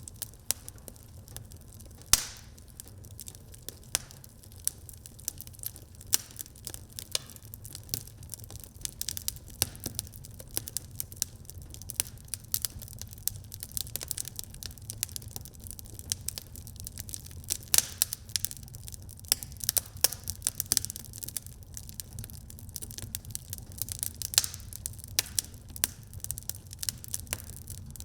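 Wood fire crackling in a fireplace: constant irregular pops and snaps over a low rumble of the flames, with a few sharper, louder pops.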